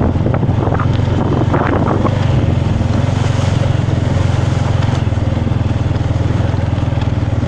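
A small motorbike engine running steadily at an even speed, a low hum made of rapid, regular firing pulses.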